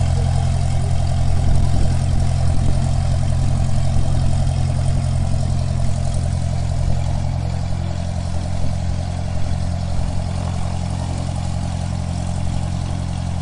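Car engine idling steadily with a low, even hum. This is a recorded sound effect, not the toy.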